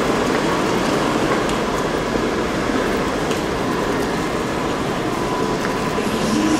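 Steady running noise inside a moving passenger train carriage: a continuous rumble of wheels on rail, with a faint steady whine above it.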